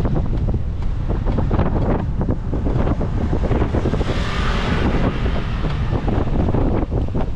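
Wind buffeting the microphone of a camera on a moving bicycle: a steady, loud low rumble, with a brief swell of hiss about four seconds in.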